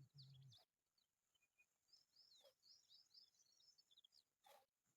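Faint bird chirping, with a run of quick high chirps in the middle and a few soft clicks. A low wavering hum stops about half a second in.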